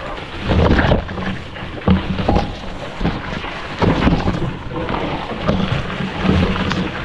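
Trudging footsteps and brushing through undergrowth on a portage trail, with irregular heavy thumps about once a second over a constant low rumbling of wind and handling noise on the microphone.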